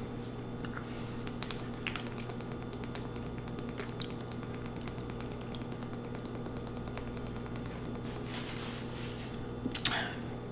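A person drinking from a plastic Ozarka water bottle: many faint small clicks and ticks over a steady low electrical hum, with a short louder burst of noise near the end.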